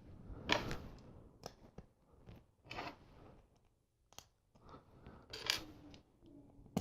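LEGO plastic bricks clicking and rattling as pieces are handled and pressed together: a scattered run of short, faint clicks and rustles with quiet gaps between them.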